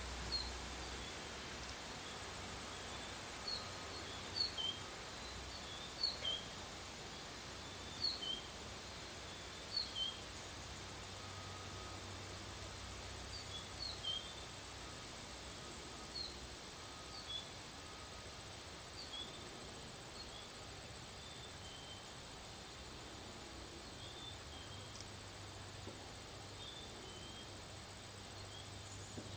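A bird calling short chirps in pairs, each a high note falling to a lower one, repeated every second or two and thinning out over the second half. Behind it runs a steady high, thin insect hum.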